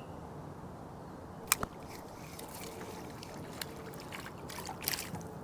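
Handling knocks on a kayak: one sharp knock about a second and a half in, then scattered lighter clicks and rattles, over a steady low background rush.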